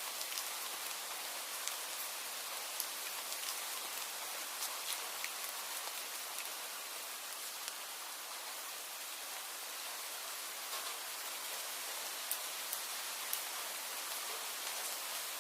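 Steady rain falling: an even hiss with many scattered sharp drop ticks close by.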